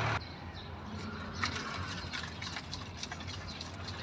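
A steady vehicle engine hum cuts off abruptly just after the start. A quieter outdoor background follows, with many short, high chirps and clicks scattered through it.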